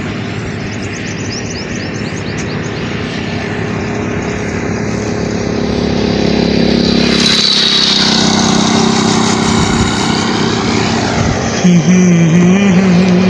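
A motor vehicle's engine running steadily under a constant hiss, growing louder about halfway through. Near the end a loud wavering tone comes in over it.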